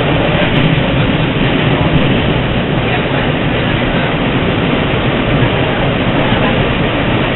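Long Island Rail Road M1 electric train running, heard from inside the passenger car: a steady, even noise of the wheels on the rails and the car in motion.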